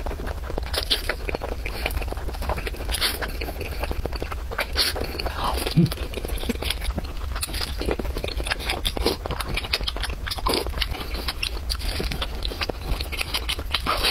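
Close-miked eating: biting into and chewing a sauce-glazed pork skin roll, with irregular smacking and clicking mouth sounds. A steady low hum runs underneath.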